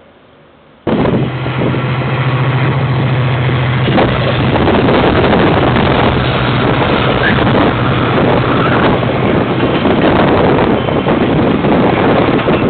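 A train passing close by, starting abruptly about a second in: a steady low diesel engine hum for the first few seconds under loud, continuous rolling noise.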